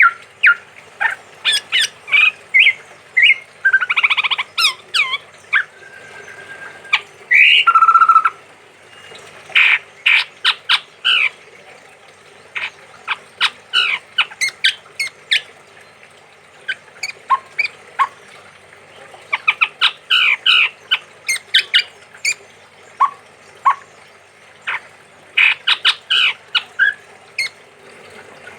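Male chestnut-rumped babbler calling: clusters of quick, sharp, repeated notes with short pauses between the bursts, and a few longer, louder notes in the first eight seconds.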